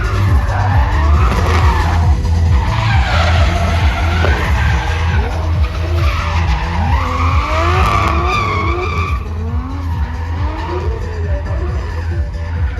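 Drift car engine revving up and down repeatedly while its tyres screech through a slide, with the screech easing off about nine seconds in. Loud music with a steady bass beat plays underneath.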